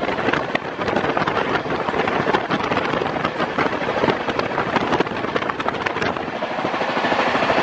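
Passenger train running at high speed, wheels clattering on the rails with a steady rush of noise and many rapid clicks.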